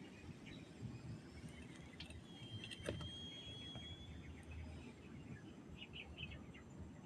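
Faint farmyard ambience of birds chirping, with one long, steady whistled note about two and a half seconds in, a sharp click just before three seconds, and quick clusters of chirps toward the end.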